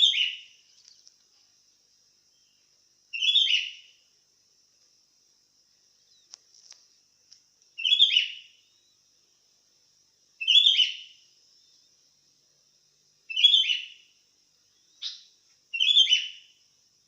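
Sooty-headed bulbul (kutilang) calling in short, loud chirping phrases, about seven times at intervals of two to three seconds, over a faint steady high hiss.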